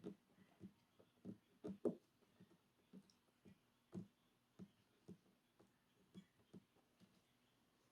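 Faint, soft taps and light thumps at an uneven pace, about one or two a second, in a quiet small room.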